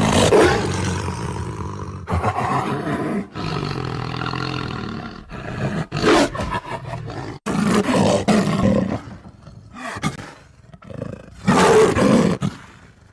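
Tiger roaring and growling: a series of rough, loud roars broken by short pauses, several stopping abruptly as if cut, the last one fading out near the end.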